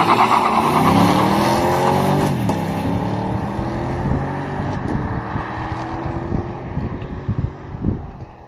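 2019 Camaro SS's 6.2-litre LT1 V8 at full throttle with the active exhaust in stealth mode, valves closed. The engine note climbs, drops at an upshift about two seconds in, then climbs again as it fades into the distance. It is really quiet for the car being floored.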